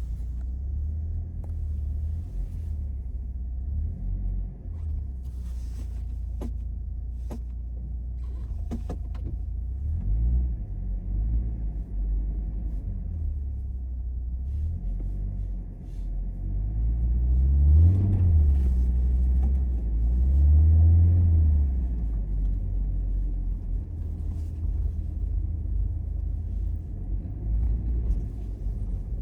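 Car driving, with a steady low engine and road rumble. A few sharp clicks come between about a quarter and a third of the way in, and about two-thirds through it gets louder as the engine note rises and falls twice while the car speeds up and eases off.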